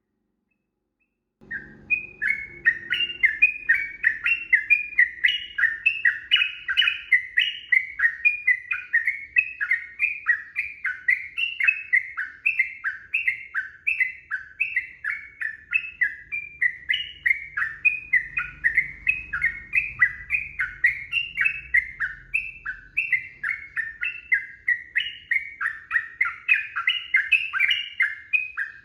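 Sooty-headed bulbul singing a long, fast, unbroken chattering series of short whistled notes, starting about a second and a half in. This is the kind of song played to set off a captive bulbul singing back.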